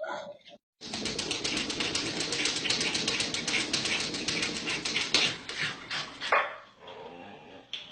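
A dog's sounds: a dense scratchy noise with many rapid clicks, starting about a second in and lasting about five seconds, then a couple of short separate sounds.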